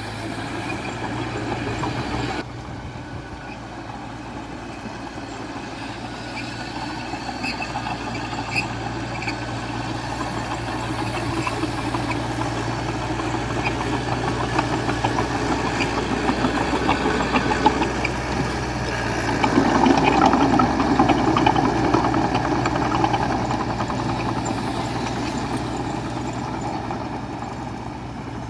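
Diesel engine of heavy earthmoving machinery running under work. It grows louder through the middle, is loudest about two-thirds of the way in, then eases off near the end.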